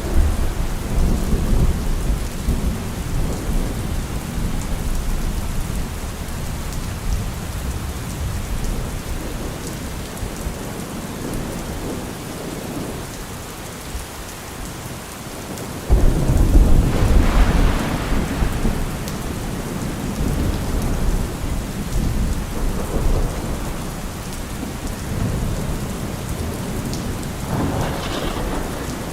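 Heavy rain drumming steadily on a car roof with thunder: a low rumble fading over the first few seconds, a sudden loud thunderclap about 16 seconds in that rolls on for several seconds, and another rumble near the end.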